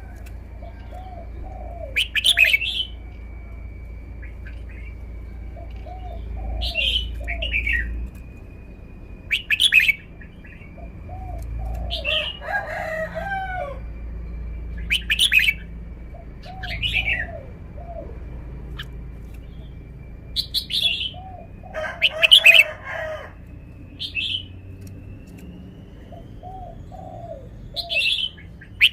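Red-whiskered bulbul singing short, repeated song phrases, one about every two to three seconds, with two longer, harsher passages in the middle.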